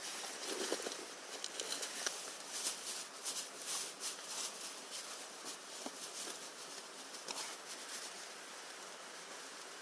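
Light, irregular rustling and crackling with quick clicks, thinning out about five seconds in and leaving a steady faint hiss.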